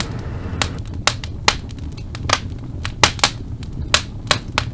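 Wood fire crackling in a fireplace: irregular sharp pops and snaps, about fifteen, over a low steady rumble.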